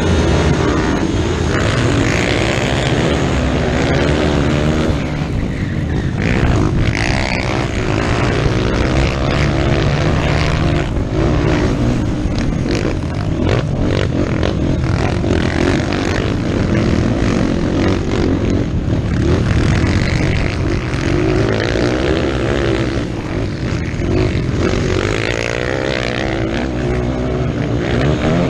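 Motocross dirt bike engine running hard, its pitch rising and falling over and over as the throttle is opened and closed.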